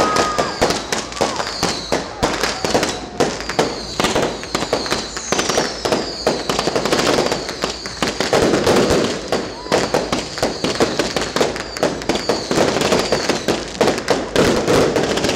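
Fireworks display: a dense, continuous run of bangs and crackling, with several high falling whistles from whistling shells among them. People's voices are heard under the explosions.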